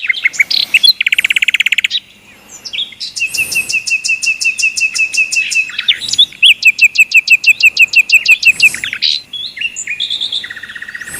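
Small songbirds chirping and trilling in high, quick runs of repeated notes, with a brief lull about two seconds in.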